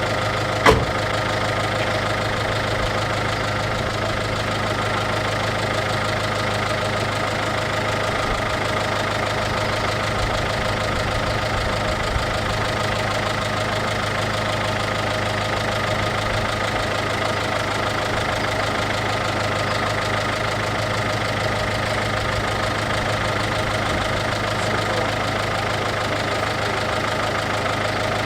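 MINI R56's 1.6 HDi DV6 diesel engine idling steadily, with one sharp click just under a second in.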